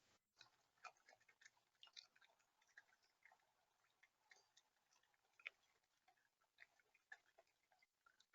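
Faint, irregular clicks and taps at a bird feeder, several a second, with a slightly louder tap about five and a half seconds in.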